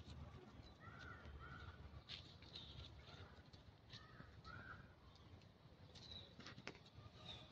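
Faint, distant cawing calls, short and in little groups of two or three, over quiet outdoor ambience with a few faint clicks.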